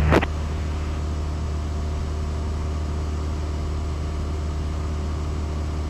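Cessna 172's piston engine and propeller droning steadily in flight after takeoff, heard inside the cockpit.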